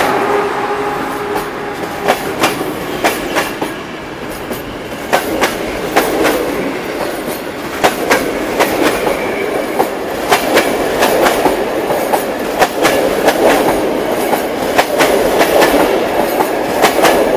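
Passenger train rolling past on the track, its wheels clacking over rail joints again and again in a steady rumble.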